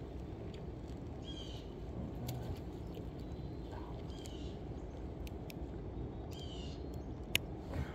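A bird calling three times, each a short curved note, a couple of seconds apart, over a steady low background noise. A single sharp click near the end.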